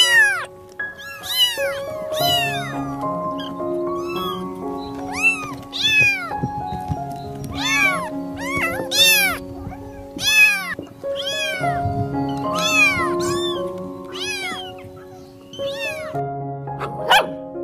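Kittens meowing over and over, high-pitched mews that rise and fall, about one a second, over background music with long held notes.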